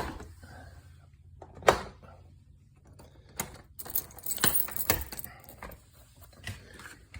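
A door and its latch being handled: a sharp knock about a second and a half in, then a run of rattling clicks a little later.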